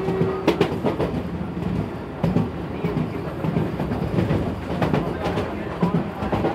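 Vande Bharat Express electric multiple-unit train running at speed, a steady rumble with irregular clicks and knocks from the wheels on the track.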